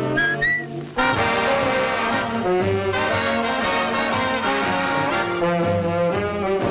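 Brassy cartoon score led by trombones, starting in full about a second in after a few high piping notes.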